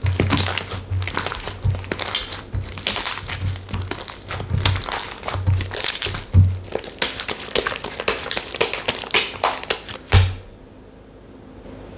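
Textured slime being squeezed and pressed by hand: dense crackling and clicking pops with soft low squelching thumps. The sound stops abruptly about ten seconds in.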